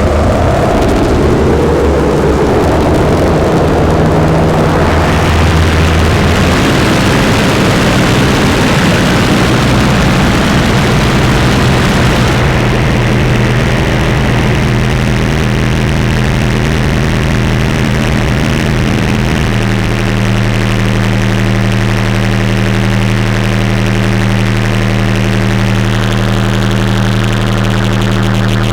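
Recursive Machine synthesizer playing a loud, continuous drone as its controls are tweaked. Low tones glide in pitch at first, then blur into a dense hiss over a steady bass note. About two-thirds of the way in it switches suddenly to a steady chord of sustained tones.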